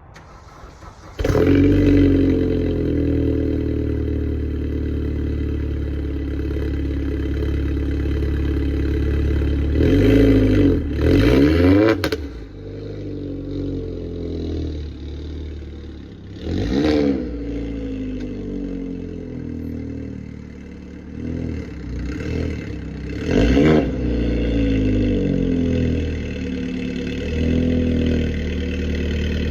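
A Vauxhall Astra VXR's turbocharged four-cylinder engine starting from cold through a Powerflow aftermarket exhaust, catching about a second in. It then idles and is blipped several times: two quick revs about ten seconds in, then single revs later on.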